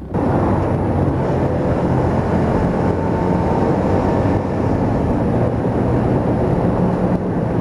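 Yamaha YZF-R125's single-cylinder engine running at a steady pitch while riding, mixed with dense wind and road noise.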